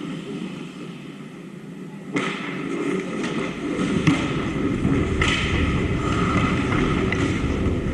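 Ice hockey play: skate scraping with sharp clacks of sticks and puck. It gets suddenly louder about two seconds in, with a louder knock about four seconds in.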